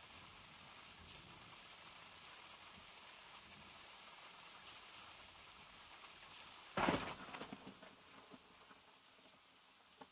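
Steady rain falling, an even hiss of drops. About seven seconds in, a sudden loud crack that dies away over a second or so.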